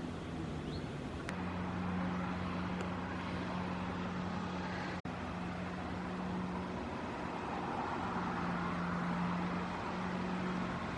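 A steady engine drone with a constant low hum, cutting out for an instant about five seconds in.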